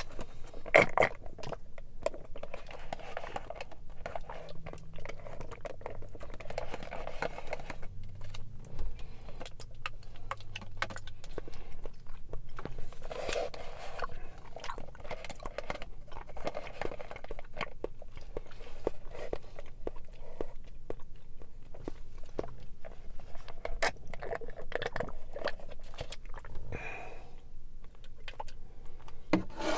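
Close-up mouth sounds of chewing chewy tapioca boba pearls, with many small wet clicks and smacks. Now and then, milk tea is sucked up through a wide boba straw.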